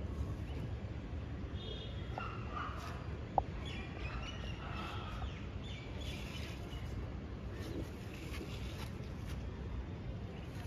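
Outdoor ambience of birds calling on and off over a steady low rumble, with one sharp click about three seconds in.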